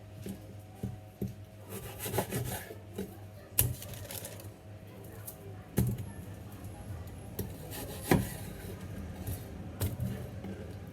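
Kitchen food preparation on a cutting board: rubbing and scraping with a few sharp knocks, as fish fillets are cut and handled, over a steady low hum.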